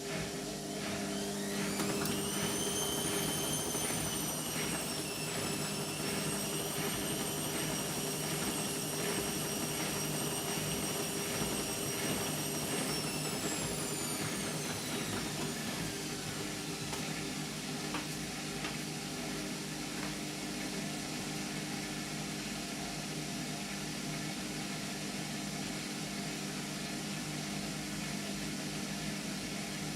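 Indesit MTWC71252WUK washing machine spinning: the motor's whine rises about a second in, holds steady with a regular pulse, then winds down about halfway through. A steady low hum runs underneath.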